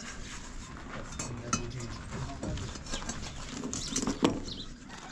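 Goats bleating, mixed with irregular knocks and clatter, the loudest knock about four seconds in.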